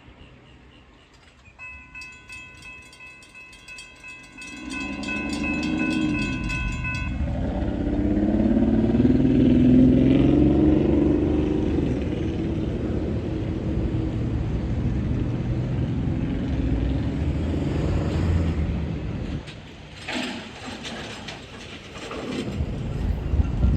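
A level-crossing warning bell rings with a rapid pulse. Then a train approaches with its horn sounding and passes with a loud, heavy rumble. Near the end there is a run of sharp wheel clicks over the rail joints.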